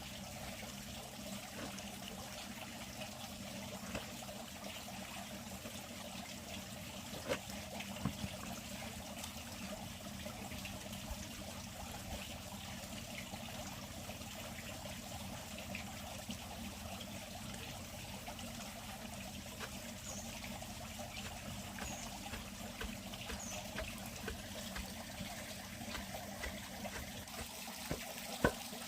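Steady trickle of running water, with a few short knocks.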